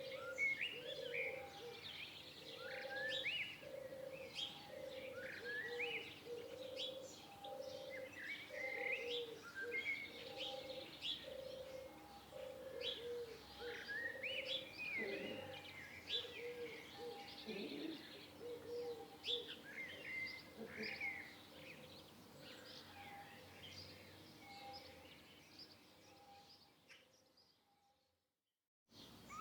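A chorus of wild songbirds chirping and whistling, with many short, quick rising notes. Beneath them a low, soft note repeats about once a second, fading away in the later part. The sound cuts to silence for about a second and a half just before the end, then the birds return.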